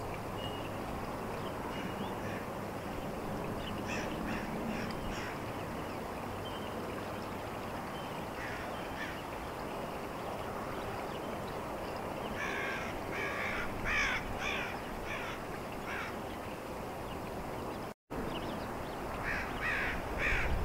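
Bird calls in short runs of several in quick succession, coming and going a few times, over a steady outdoor background noise.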